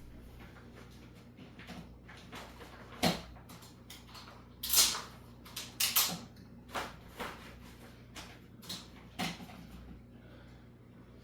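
Irregular handling noise: about eight sharp knocks and clicks with short rustles between them, spread unevenly over several seconds, the loudest a knock about three seconds in and a longer rustle about five seconds in.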